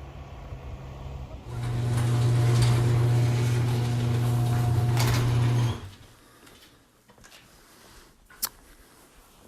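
A motor running at a steady pitch with a hiss over it. It is faint at first, comes in loud after about a second and a half, and cuts off suddenly about six seconds in. A single sharp click follows near the end.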